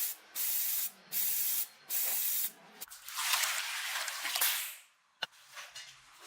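Hissing spray in three short bursts, then one longer burst of about two seconds, with a sharp click near the end.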